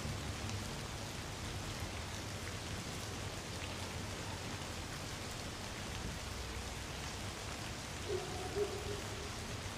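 Light rain falling steadily, with many small drops ticking. About eight seconds in, a brief faint pitched sound comes twice in quick succession in the distance.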